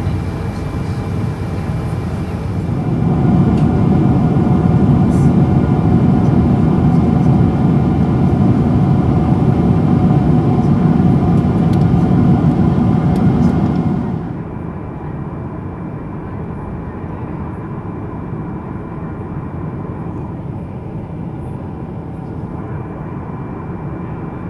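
Boeing 777-200 jet engines and airflow heard inside the passenger cabin: a steady rumble with a few faint constant tones. It swells a few seconds in, then drops suddenly a little past halfway to a quieter, duller rumble.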